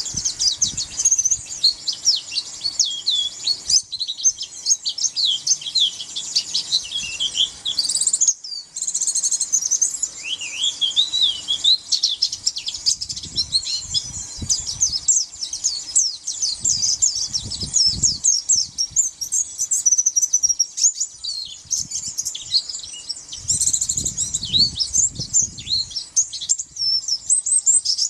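A pleci (white-eye) singing a fast, unbroken stream of high twittering chirps and trills, with low bumps now and then underneath.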